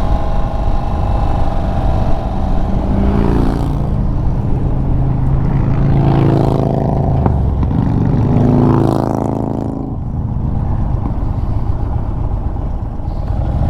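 Indian Chief Bobber Dark Horse's V-twin engine running under way on a ride, its pitch rising and falling several times as the throttle is opened and eased off.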